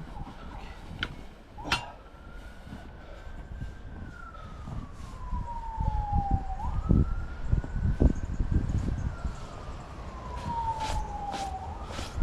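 A siren wailing in a slow cycle: its pitch climbs gently, slides down over a few seconds, then jumps back up, about twice. Low thumps and rumble run underneath.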